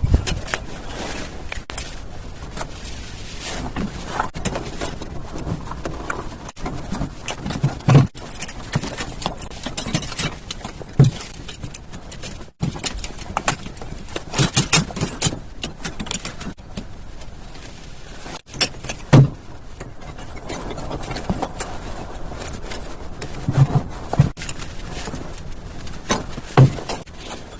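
Hand tools scraping and clattering against cement work, with a sharp knock every few seconds.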